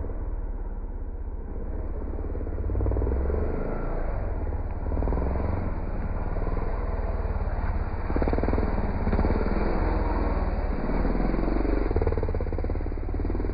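Dirt bike engine running while riding, its level rising and falling every few seconds with the throttle, over a heavy low rumble.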